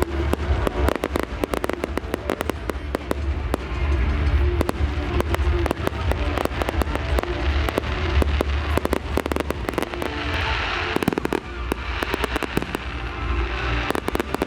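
Fireworks bursting in quick succession, a rapid string of sharp bangs and crackles that grows densest about two-thirds of the way through, over a music soundtrack with a steady low bass.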